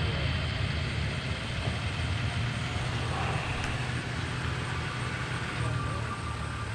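A vehicle engine running steadily, a low even hum with a wash of noise over it.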